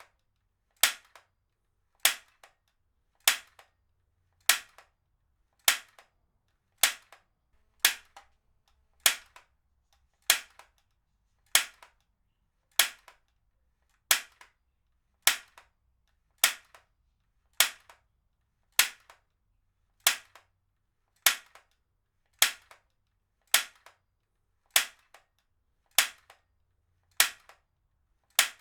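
Heavy-duty stapler firing again and again at a steady pace, a sharp snap about every second and a quarter. Each snap is followed by a much fainter click.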